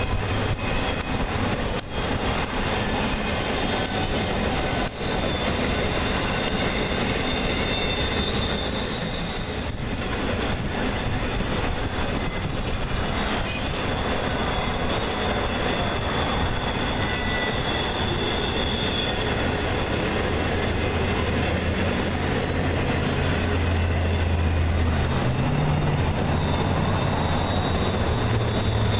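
Freight train cars rolling past on jointed track, with steady metallic wheel squeal. A deep diesel locomotive hum builds up about two-thirds of the way in.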